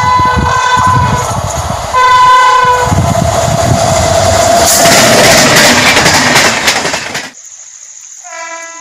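Indian Railways WAP-7 electric locomotive sounding its horn, a blast that ends about a second in and a second blast about two seconds in, then the train passing at speed with loud rushing and rail clatter that cuts off suddenly about seven seconds in. Near the end a short, fainter horn blast comes from a distant train.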